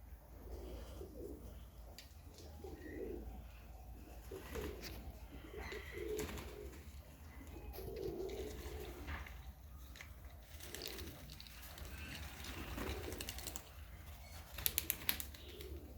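Serbian highflyer pigeons cooing over and over, low calls every second or two. Near the end comes a quick run of several sharp clacks.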